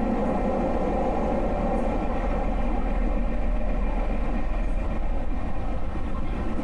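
JR Yamatoji line passenger train running at steady speed, heard from inside the car: a continuous rumble of wheels and running gear with a steady hum.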